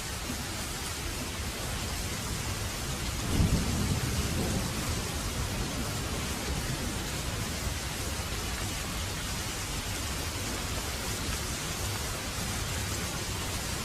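Heavy rain falling steadily, with a thunderclap a little over three seconds in that rumbles away over about two seconds.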